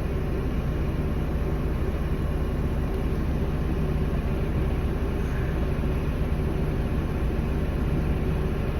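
Idling engine running with a steady, even-pitched low hum.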